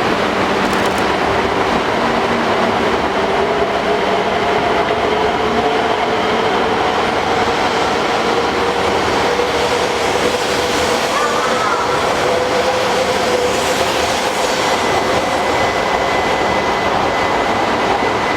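Coupled E2- and E3-series Shinkansen train pulling out of the station: a steady loud rumble of wheels on rail, with the traction motors' whine slowly rising in pitch as the train gathers speed.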